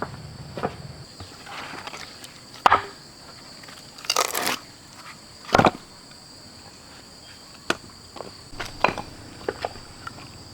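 Insects chirring steadily and high, with scattered sharp knocks and clicks over it, a short rustling crunch about four seconds in and a heavier thump just after.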